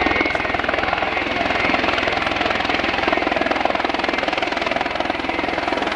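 Full-size police helicopter close by as it comes in to land: steady rotor and engine noise with a rapid, even beat from the blades.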